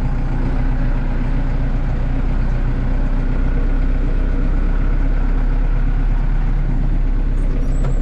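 Tractor engine running steadily while the tractor is driven along, heard from inside the cab.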